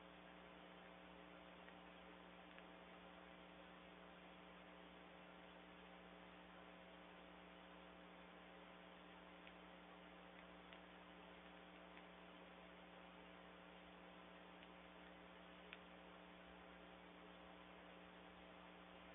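Near silence: a faint, steady electrical hum with a few faint, scattered ticks.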